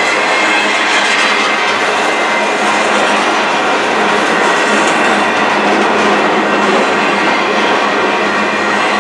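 Empty freight flatcars rolling past close by: the steady, loud running noise of steel wheels on the rails.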